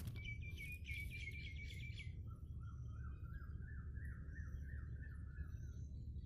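Wild birds singing: a fast run of high repeated chirps for about two seconds, then a lower warbling phrase of rising notes, about three a second, that stops shortly before the end, over a steady low rumble.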